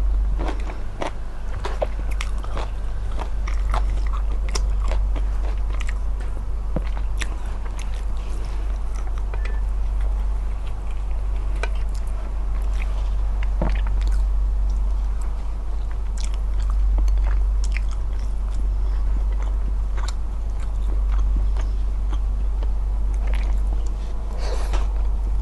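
Close-miked eating: wet chewing and biting with many small clicks and crunches, irregular throughout, over a steady low hum.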